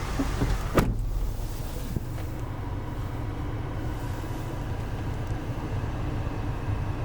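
A single sharp thump about a second in, then a steady low hum from the Land Rover Discovery Sport.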